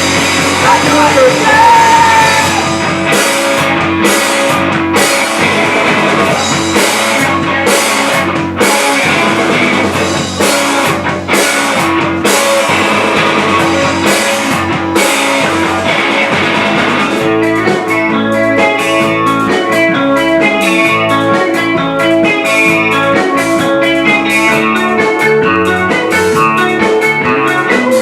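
Live rock band playing a largely instrumental passage with electric guitar and drum kit; about seventeen seconds in the playing turns choppier and more rhythmic.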